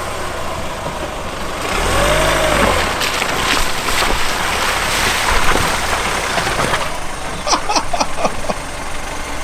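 Nissan X-Trail's engine revving under load as it tries to drive up out of a steep muddy dip where it is stuck. A rush of noise builds from about two seconds in and dies away after about seven seconds.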